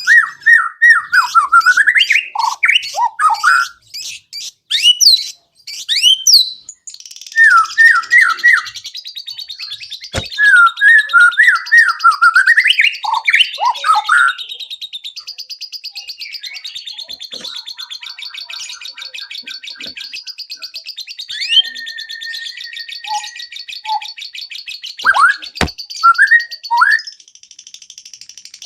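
White-rumped shama singing a loud, varied song of quick whistled sweeps and note runs, breaking into long, fast high trills about a quarter of the way in, with a mix of other phrases beneath. Two sharp clicks cut through, one about a third of the way in and one near the end.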